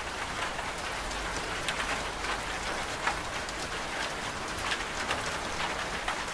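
Steady rain falling, with scattered single drops striking close by.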